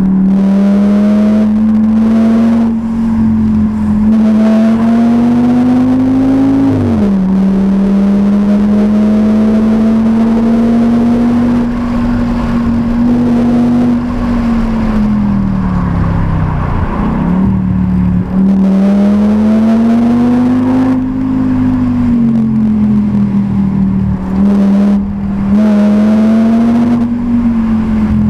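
Audi S6's 5.2-litre V10 engine heard from inside the cabin while driving up a mountain pass: the engine note rises and falls with the throttle, drops suddenly about six or seven seconds in, and sags before picking up again about seventeen seconds in.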